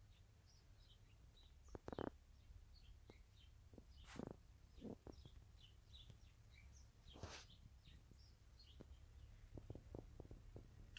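Faint scattered bird chirps over a low steady rumble, with a few brief louder noises about two, four and seven seconds in.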